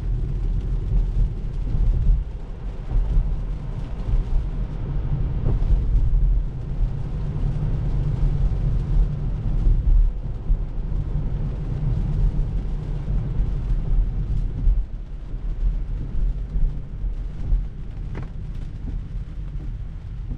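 Heavy rain falling on the roof and glass of a Tesla Model 3, heard from inside the cabin, over a steady low rumble of tyres on the wet road.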